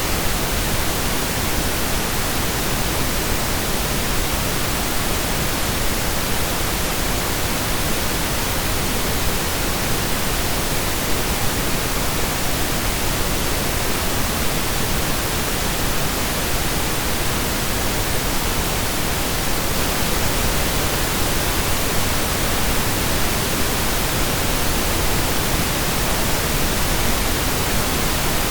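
Steady synthesized pink noise: an even, unchanging hiss like steady rain, with equal energy per octave.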